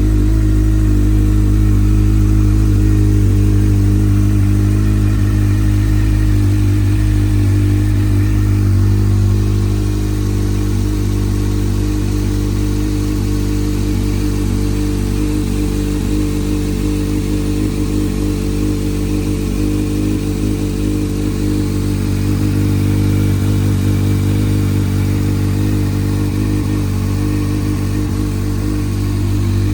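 Honda CBF1000's inline-four engine idling steadily, the note settling slightly quieter about ten seconds in.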